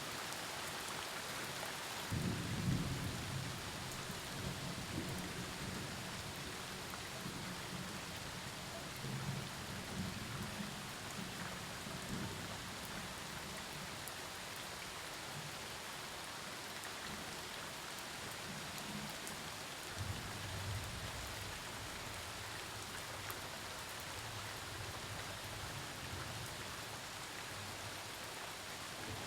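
Steady rain falling during a thunderstorm, with a low rumble of thunder starting about two seconds in and rolling on for several seconds, and a second rumble starting about twenty seconds in.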